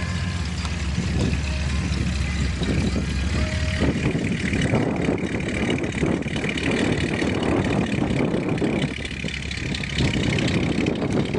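An engine idling with a steady low hum, which drops away after about four seconds, giving way to gusty wind buffeting the microphone.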